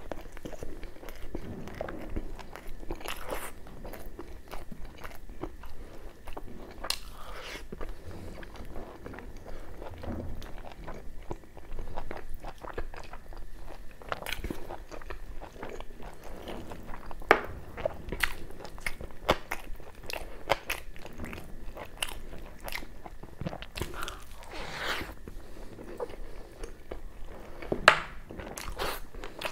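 Close-miked chewing and biting of puri with mutton curry: many short wet mouth clicks and crunches. There are two sharper, louder crunches, one just past the middle and one near the end.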